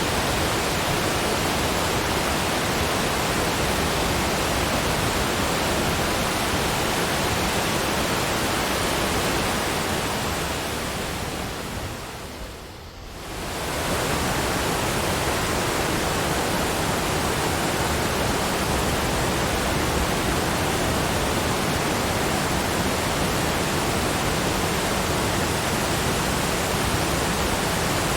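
Steady, even rushing noise spread across all pitches, with no tones or distinct events. It fades down briefly about twelve seconds in and then comes back to the same level.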